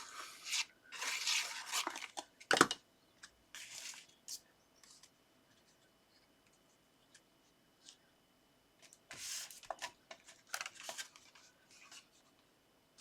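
Paper and card being handled and pressed into place: rustling and scraping in short bursts, with one sharp tap about two and a half seconds in, then a quiet stretch before more rustling near the end.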